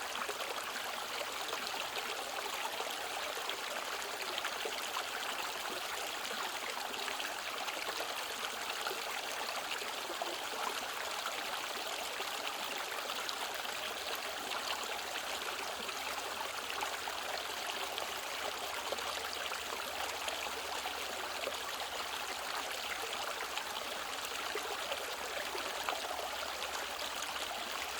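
Mountain valley stream, water running steadily.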